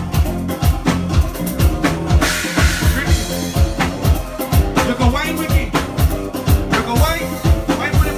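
Live band playing up-tempo soca: a steady drum-kit beat under the band, with a singer's voice coming in and out and a cymbal wash about two seconds in.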